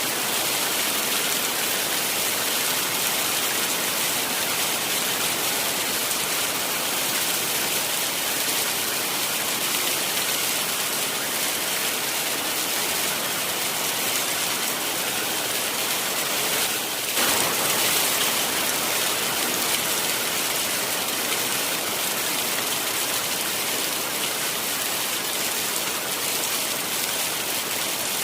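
Heavy rain falling steadily, an even dense hiss, swelling briefly a little past the middle.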